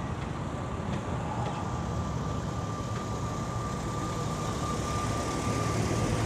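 Car engines running at idle with a steady low rumble, and a thin, steady high whine that sets in about half a second in.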